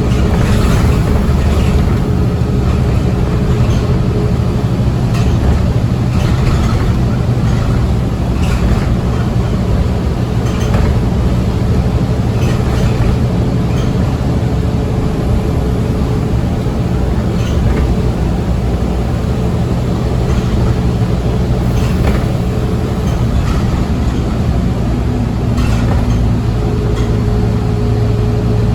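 Scania OmniCity bus heard from inside the cabin while cruising at speed: a steady engine drone with road and tyre noise, broken by occasional short rattles. A thin whine runs in the drone and drops out for a few seconds near the end.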